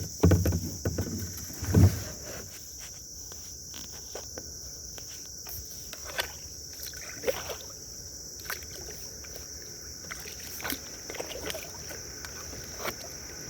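Kayak paddling: the paddle thumps against the hull twice in the first two seconds, then comes a light splash or drip every second or so as it dips into the water. A steady high insect chorus of crickets runs underneath.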